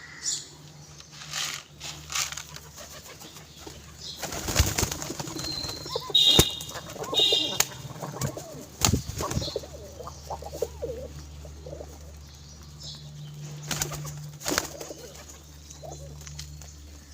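Birds flapping their wings and calling while being hand-fed, with a few quick high chirps about six to seven seconds in. A low steady hum runs underneath.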